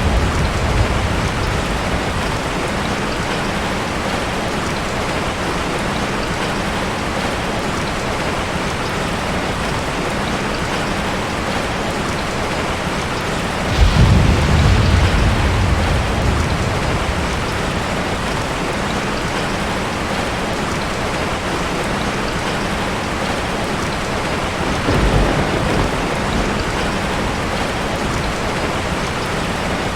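Steady heavy rain falling, with thunder rumbling in low: a loud roll about fourteen seconds in that dies away over a few seconds, and a softer one about twenty-five seconds in.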